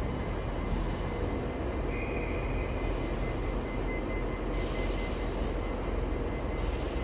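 Train running with a steady low rumble and a faint high whine; a burst of hiss starts about four and a half seconds in and lasts about two seconds.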